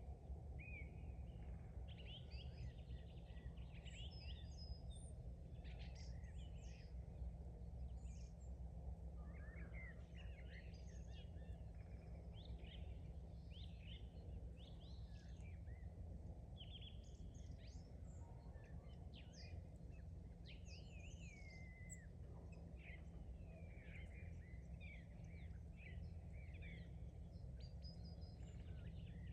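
Several small songbirds chirping and trilling in quick, overlapping phrases over a steady low background rumble.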